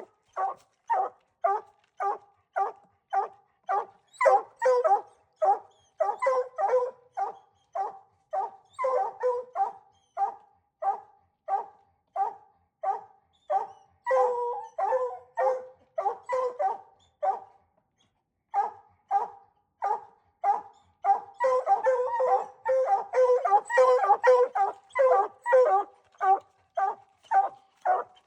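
Hunting hound barking steadily and rhythmically, about two barks a second, with a short pause just past the middle. Near the end the barks come thicker and overlap.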